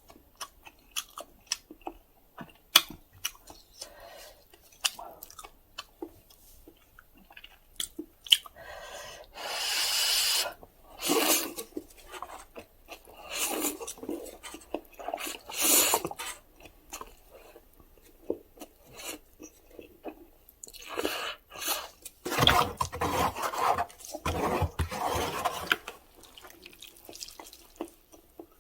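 Close-miked eating of instant cup ramyeon: wet chewing and sharp mouth clicks, with several long slurps, the longest and loudest near the end.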